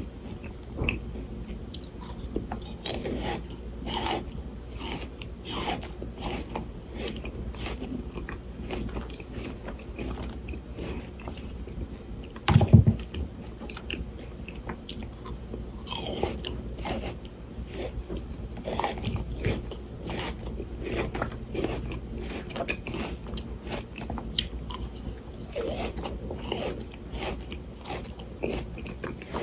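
Close-miked biting and chewing of frozen Shine Muscat grapes: a run of crisp, icy crunches and crackles as the frozen flesh breaks, with one louder low thump about halfway through.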